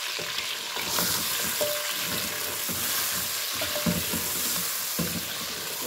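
Chicken legs with chopped garlic and ginger sizzling as they fry in a metal pot, stirred with a wooden spatula that scrapes and knocks against the pot. The sizzle grows louder about a second in.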